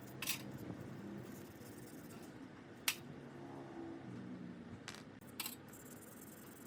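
A few sharp, isolated clicks of small hard parts being handled, over a steady low hum.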